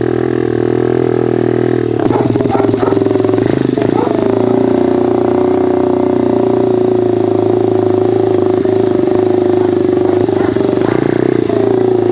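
Pit bike engine running while being ridden: it revs up about two seconds in, wavers briefly, then holds a steady, higher-pitched drone.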